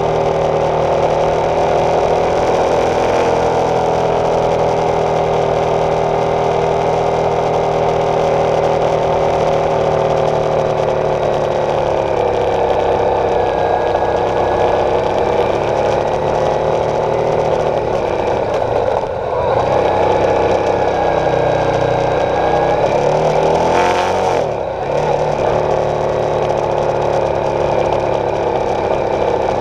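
2015 Honda CB300F motorcycle's single-cylinder engine running while riding, its note drifting up and down, with two brief dips and breaks in the note, about two-thirds of the way through and again a few seconds later.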